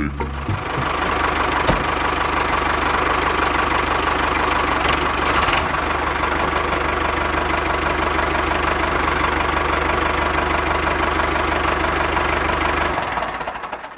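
Tractor engine running steadily at a constant pace, fading out near the end.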